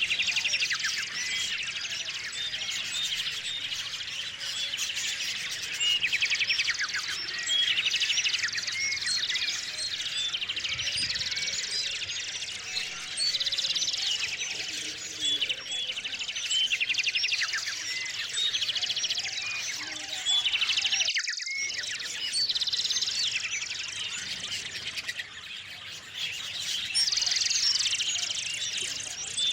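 A chorus of small songbirds at a feeder: many birds chirping and trilling at once, overlapping calls throughout, with a brief break in the sound about three-quarters of the way through.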